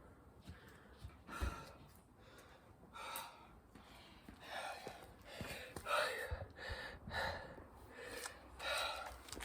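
A person breathing hard and gasping in quick, loud breaths, worn out from a long burpee and chin-up workout, with a couple of dull thuds.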